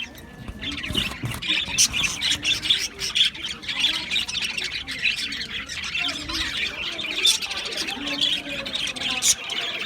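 A colony of budgerigars chattering and chirping continuously, dense overlapping calls with many short, sharp squawks.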